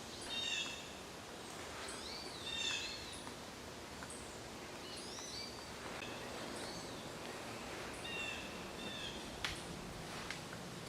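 Bird calls: a series of short chirps that rise and fall in pitch, coming every second or two over steady outdoor background noise, with two sharp taps near the end.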